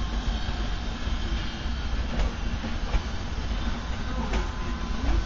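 Trenitalia Treno Notte sleeper coaches rolling slowly past, a steady rumble of wheels on rail. Two sharp clicks, about two seconds apart, come as the wheels cross rail joints.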